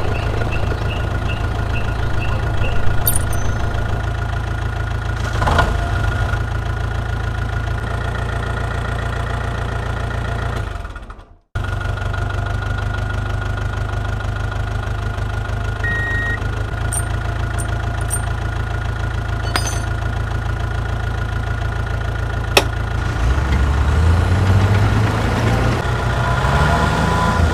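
The motor of a homemade mini tractor running steadily with a low hum. It fades out and breaks off abruptly about eleven seconds in, then picks up again at once. In the last few seconds its pitch rises as it speeds up.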